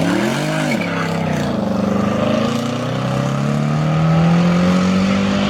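Modified car engine revved once, its pitch jumping up and dropping back within the first second, then rising steadily as the car accelerates.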